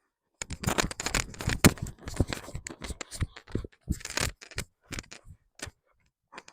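A busy run of irregular scraping, rustling and clicking noises, thinning out near the end.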